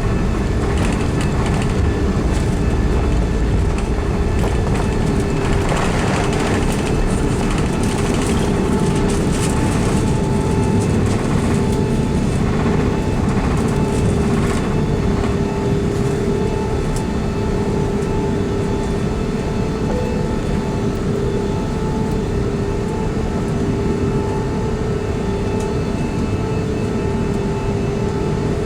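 Cabin sound of an Airbus A380-841 with Rolls-Royce Trent 900 engines rolling on the ground: a steady engine hum with two held tones over a low rumble. Light rattling comes in about six seconds in and fades out by about fifteen seconds.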